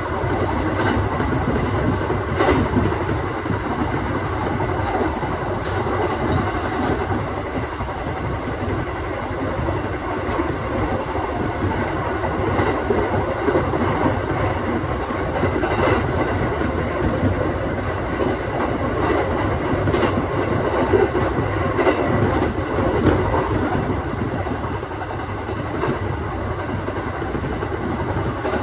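Aoimori Railway 701-series electric train running along the line, heard from inside the car: a steady rumble of wheels on rail, with a few sharp clacks from rail joints.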